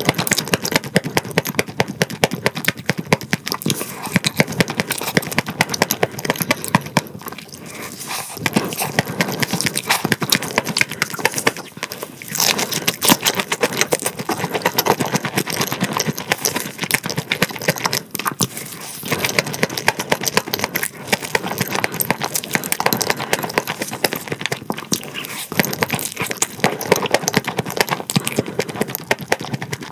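Close-miked crunching and chewing of crispy fried food: a steady stream of crackling crunches from bites and chewing.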